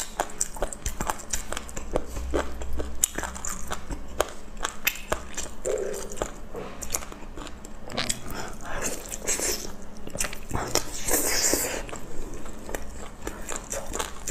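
Close-miked biting and chewing of very tender roast lamb leg: a steady run of wet smacks and sticky mouth clicks, with a few longer hissy bursts past the middle.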